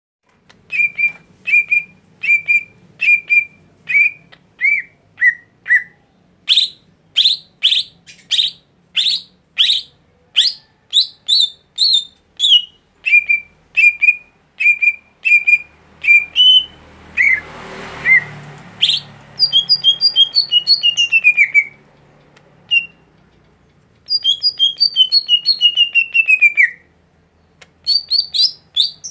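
A songbird singing a varied song: a run of short clear whistled notes about two a second, then quick notes sweeping downward, and later fast rattling trills that step down in pitch. A brief hiss comes about two-thirds of the way in.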